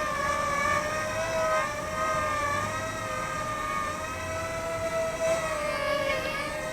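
Parrot Blaze Airborne Night minidrone's four small propeller motors whining in flight, a fairly loud high hum made of several tones whose pitches waver slightly up and down as it holds itself in the air.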